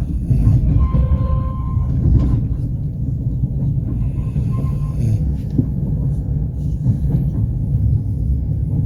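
Passenger train rolling along the track, heard from inside the carriage: a steady low rumble with the clatter and knocks of the wheels over the rails, and a brief faint whine about a second in.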